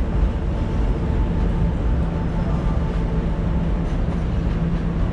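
Hankyu electric commuter train, a steady low rumble with a constant electric hum.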